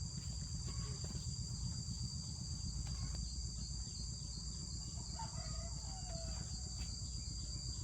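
Insects chirring in a steady high drone, with a low rumble underneath and a faint animal call about five seconds in.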